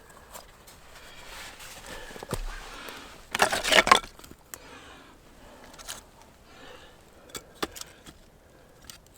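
Rustling and light clicks of something being handled, with one loud crackling crunch about three and a half seconds in.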